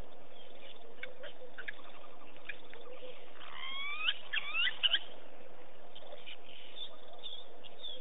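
A bird calling: a short run of whistled notes that swoop up and down, about halfway through, over a steady background hiss, with a few faint short chirps before it.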